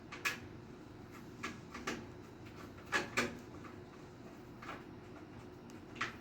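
A series of light, irregular knocks and clicks of hardware being handled, the two loudest close together about three seconds in, over a faint steady hum.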